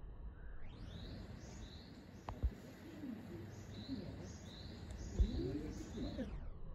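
A small bird giving a series of short, high, arched chirps, about a dozen over several seconds. Two dull knocks, the loudest sounds, come about two and a half and five seconds in.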